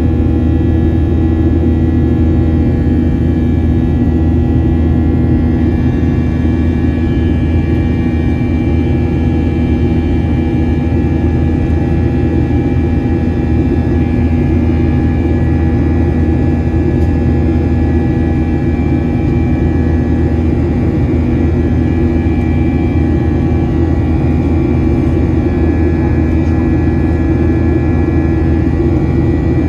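Boeing 737 jet engines running at a steady setting: a loud, even roar of deep rumble with several steady whining tones held above it, unchanging throughout.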